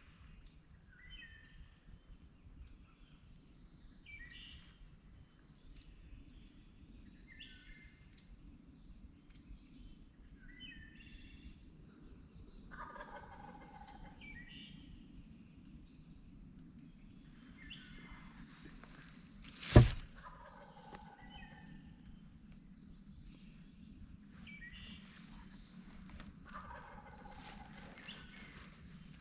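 Wild turkey gobbling several times, with smaller bird calls earlier on. A single sharp, loud bang cuts through about two-thirds of the way in, and the gobbling carries on after it.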